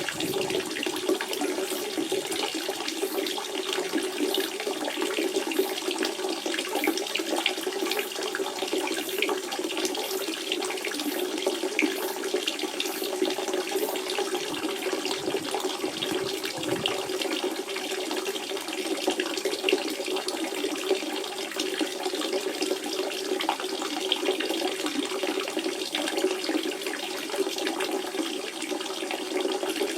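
Natural spring water running and splashing steadily, a continuous babbling flow with a gurgle in the lower middle.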